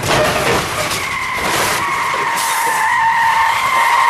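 A car's tyres squealing as it skids on the highway: a steady high-pitched squeal that starts about a second in and holds, over the rushing noise of traffic.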